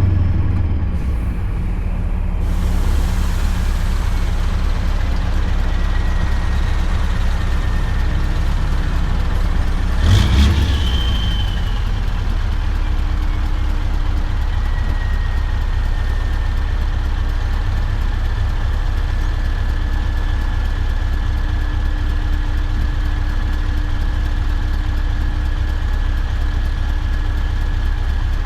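Scania V8 diesel truck engine running steadily while driving, with a faint steady whine above it. A single thump comes about ten seconds in.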